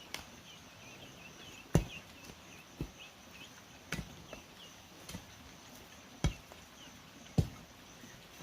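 Chopping strikes, sharp and separate, about one a second with irregular spacing. Behind them a bird chirps repeatedly over a steady insect drone.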